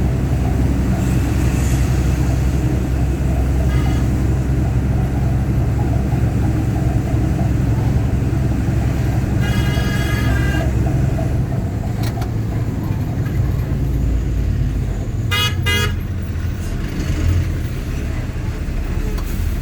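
Heavy truck engine running with a steady low rumble that eases off about halfway through, while vehicle horns sound: a short toot about four seconds in, a longer blast around ten seconds, and two quick toots near the end.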